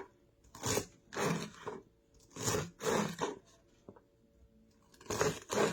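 Kitchen knife slicing through celery stalks on a cutting board: about six short crunching cuts, spaced irregularly, with a lighter tap of the blade on the board in between.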